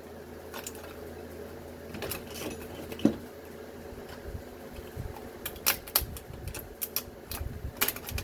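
Irregular clicks and metallic knocks of hand tools on scrap metal as screws and an aluminum piece are worked loose, with one louder knock about three seconds in and quicker taps near the end.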